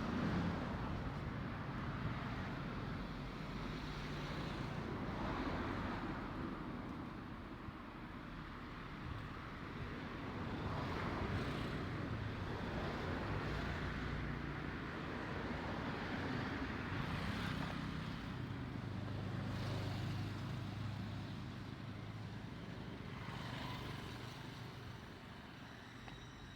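Road traffic: several cars passing one after another, their engine and tyre noise swelling and fading every few seconds, dying down near the end.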